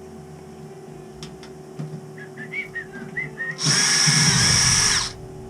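Cordless drill-driver running for about a second and a half near the end, backing out the screws of the boiler's front cover. Under it runs a steady whine from the boiler's circulator pump, which is worn and struggling; a few short high squeaks come just before the drill.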